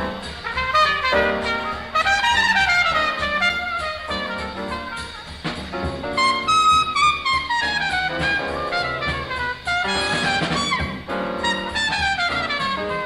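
Live 1940s bebop small-group jazz: a horn plays fast runs that sweep down in pitch again and again.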